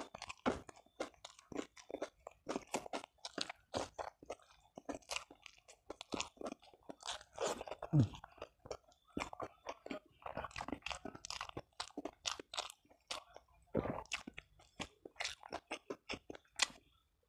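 A person chewing and crunching food close to the microphone: a steady run of quick wet mouth clicks and smacks. About eight seconds in comes a short, low, falling mouth sound, the loudest moment.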